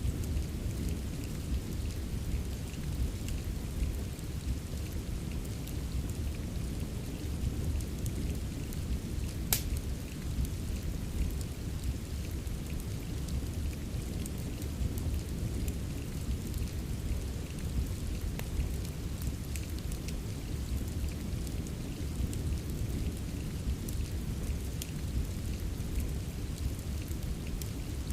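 Steady rain with a deep, even rumble underneath, mixed with a wood fire's sparse sharp crackles and pops; the loudest pop comes about nine and a half seconds in.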